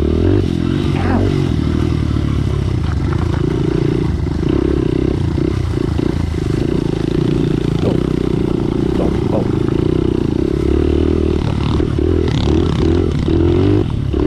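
Pit bike's small single-cylinder engine running under load while riding, its pitch shifting up and down with the throttle, most near the end. A few knocks and rattles from the bike going over rough trail.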